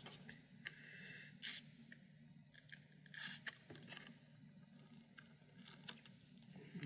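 Faint small clicks and short scrapes of a plastic syringe and a computer power-supply fan being handled as oil is pushed into the fan's sealed bearing through a gap, with a couple of slightly louder knocks.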